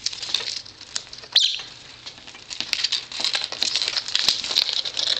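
Small pet parrots chewing and picking at toys on a table: many quick, irregular beak clicks and scratches, growing busier in the second half, with one short high chirp about a second and a half in.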